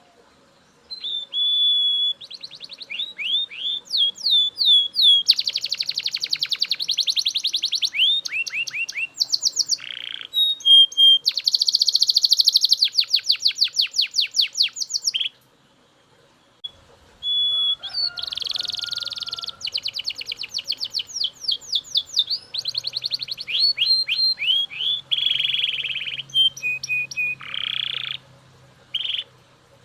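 Male Belgian canary singing loudly in rapid trilled rolls and runs of repeated whistled notes. The song starts about a second in, stops for a couple of seconds around the middle, then resumes.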